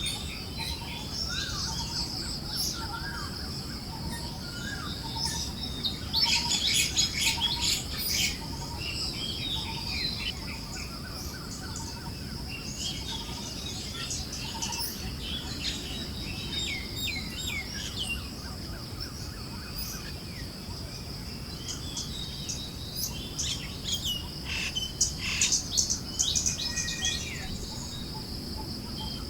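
Forest birds chirping and calling over a steady high insect-like drone and a soft wind hiss, with two denser, louder flurries of chirps, one about six seconds in and one near the end.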